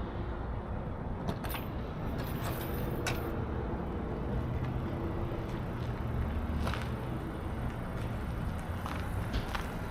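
A semi-truck driving: a steady low rumble of engine and road noise, with a few sharp clicks and rattles.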